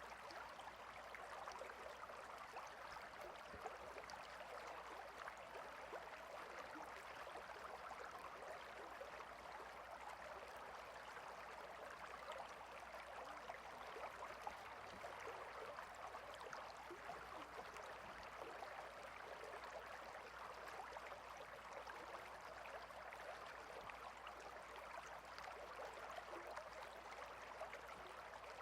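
Faint, steady babble of a small water stream flowing over stones, an even rushing with fine splashing texture and no other events.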